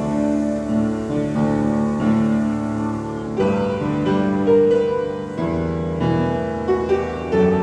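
Piano playing slow, sustained chords that change about every second.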